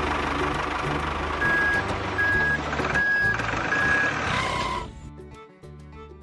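Truck engine running while a reversing alarm beeps four times at an even pace. The engine noise cuts off a little under five seconds in, leaving background music.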